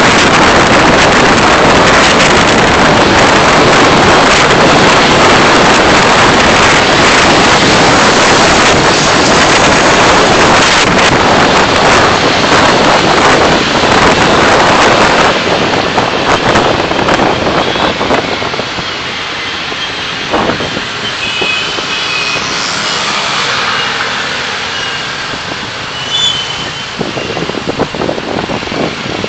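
Car driving, recorded from inside: loud, steady road and wind noise for about the first half, easing about halfway through as the car slows, leaving quieter traffic sound with a few faint high tones.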